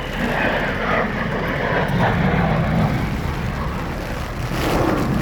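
A General Dynamics F-16AM fighter's single Pratt & Whitney F100 turbofan passing in flight: steady jet noise with a strong low rumble.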